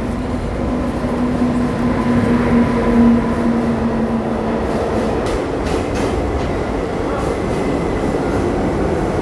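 Passenger train pulling slowly out of a station, heard from the coach doorway: a steady rumble of the moving coach and its wheels on the rails. A steady tone runs through the first four seconds or so, and a few wheel clicks come about five to six seconds in.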